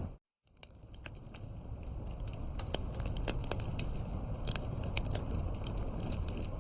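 Campfire burning, with irregular sharp crackles and pops over a low rumble of flame. Just after the start the sound cuts out completely for a moment, then fades back in over about a second.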